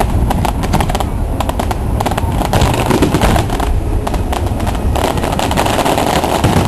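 Fireworks going off in quick succession: a dense string of sharp bangs and crackles over a steady low rumble.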